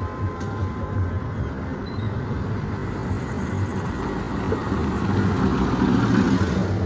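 Road traffic: vehicle engines running in slow, congested traffic, with one vehicle passing close and growing louder through the second half before easing off near the end.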